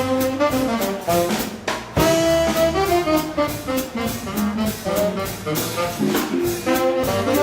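Live swing combo playing an up-tempo instrumental: saxophone and horn lines over a steady drum beat.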